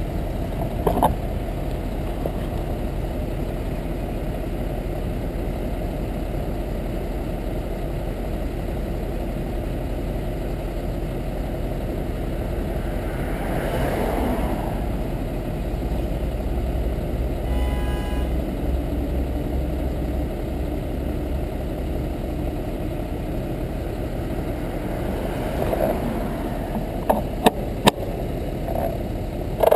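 Steady road and wind noise while riding a bicycle along a road in traffic, with motor vehicles passing, one swelling and fading about halfway through and another near the end, and a few sharp clicks near the end.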